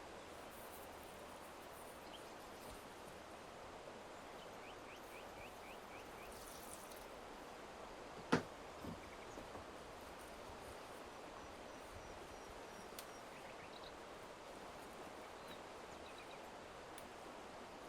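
Rural outdoor ambience: a steady hiss with faint, short bird chirps now and then, and one sharp knock about halfway through.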